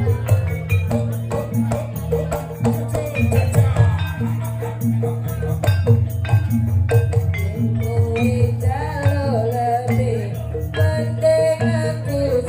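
Live band music with a repeating bass line and a fast, even shaker-and-drum beat; a wavering melody line comes in about eight seconds in.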